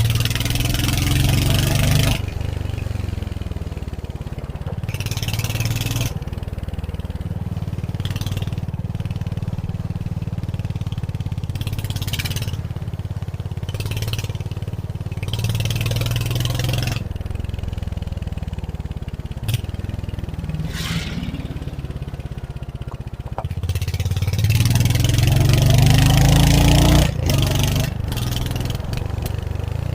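Royal Enfield Hunter 350's single-cylinder engine running as the bike is ridden, the revs repeatedly rising and falling with the throttle; the longest, loudest climb in revs comes near the end.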